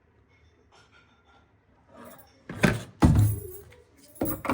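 Household objects handled in a kitchen: two sharp knocks about halfway through, then more clattering near the end.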